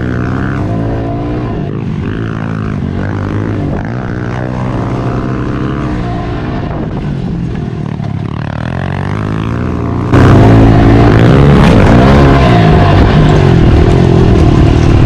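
Small pit bike engines running and revving up and down as the bikes are ridden, becoming suddenly much louder about ten seconds in.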